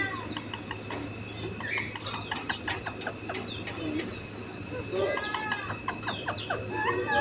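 Parrots chirping and chattering in many short calls, ending in a quick run of repeated falling chirps, several a second, over the last couple of seconds.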